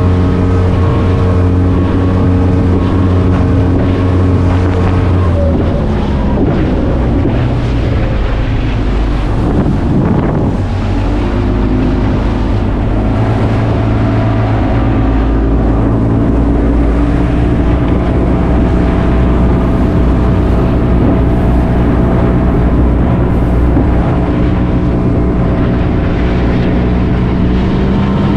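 Powerboat engines running hard at speed with wind rushing over the microphone; the engine note shifts pitch twice along the way.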